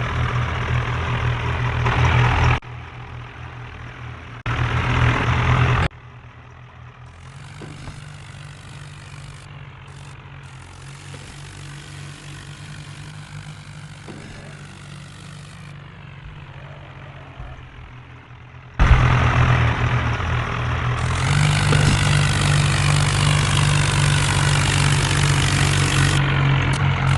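Tractor engine running at a steady speed. The sound cuts abruptly several times between louder and quieter stretches.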